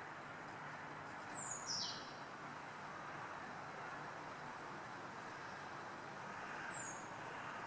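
A few short, high bird calls, each sliding quickly downward in pitch: two in close succession about a second and a half in, a faint one midway and another near the end. They sound over a steady background hum of distant city noise.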